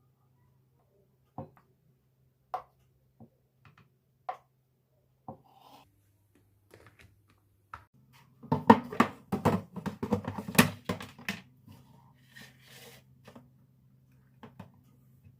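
Household objects being handled on a hard surface: a few separate knocks, then a quick flurry of clicking and clattering for about three seconds, over a faint steady hum.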